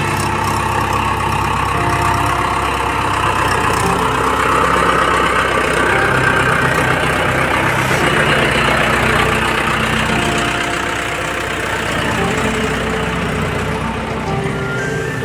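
Mahindra 585 tractor's diesel engine running steadily, its engine speed shifting a little now and then.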